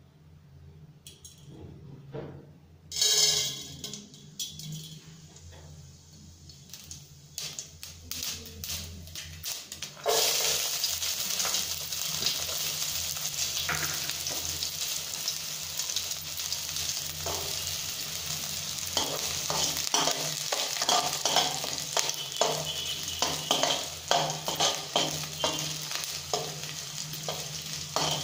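Hot oil in a frying pan: quiet at first with a brief loud crackle about three seconds in and scattered pops. About ten seconds in a steady sizzle starts suddenly as chopped onions fry in the oil. In the last third a spatula stirs the onions and green chillies, clicking and scraping against the pan over the sizzle.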